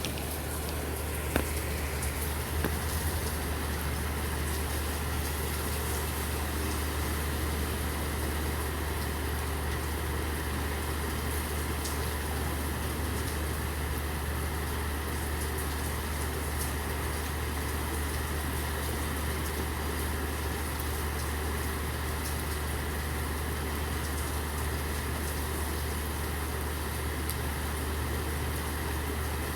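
Steady low hum of an idling vehicle engine under a constant hiss of falling rain.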